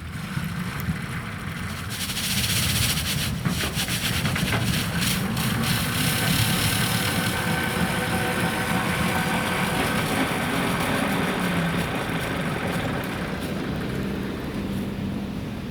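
Sapporo streetcar sasara snow-sweeper passing, its rotating bamboo brooms throwing snow off the rails with a loud rushing noise over the car's motor whine and low hum. The sound swells about two seconds in and eases off near the end.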